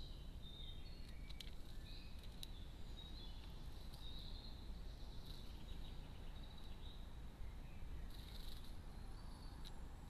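Faint, high chirps and twitters of small garden birds, denser about eight seconds in, over a steady low outdoor rumble, with a few sharp clicks.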